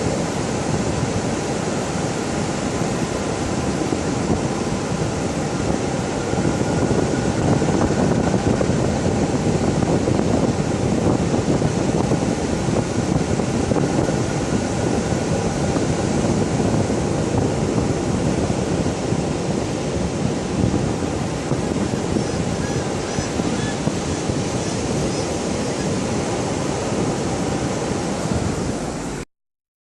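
Ocean surf washing onto the beach, with wind on the microphone: a steady rushing noise that cuts off suddenly near the end.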